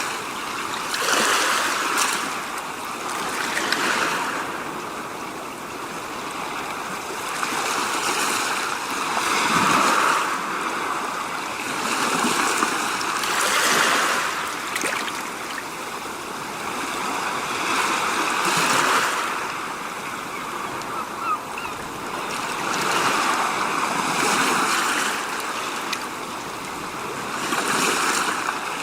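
Rushing water-like noise that swells and fades every few seconds, in the manner of waves washing in.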